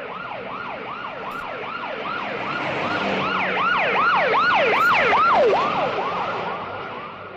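A siren in a rapid yelp: evenly repeated falling sweeps, about three a second. It grows louder toward the middle, fades, then cuts off suddenly.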